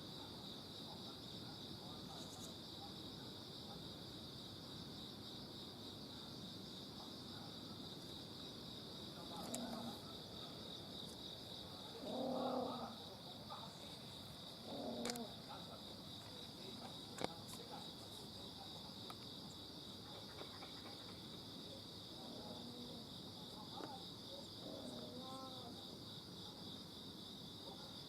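Insects chirring steadily in a high, pulsing drone. A cat meows several times over it in short calls, the loudest about halfway through, and there is a single sharp click a little later.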